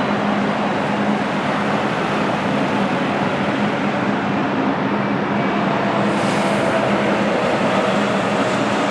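Jet airliner engines running during a landing, a loud, steady rushing noise with a low hum beneath it.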